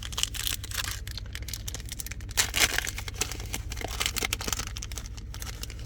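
Foil trading-card pack crinkling and tearing as it is handled and ripped open, in several rustling bursts with the loudest about two and a half seconds in. A steady low hum runs underneath inside the truck cab.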